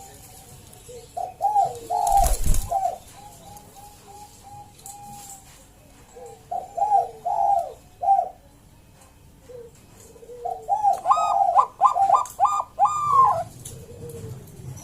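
Zebra dove (Bangkok-type perkutut) singing: three phrases of rapid cooing notes, the last the longest and loudest. A short knock sounds about two seconds in.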